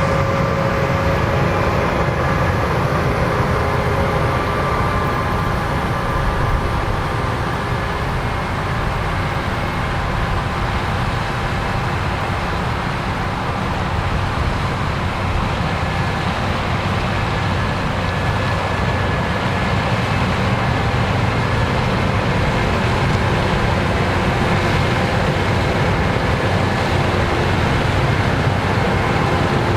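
Case IH AF10 combine with its 15.9-litre 775 hp engine harvesting corn through a 16-row corn head: engine and threshing machinery running steadily under load, with a few faint steady whines over the drone.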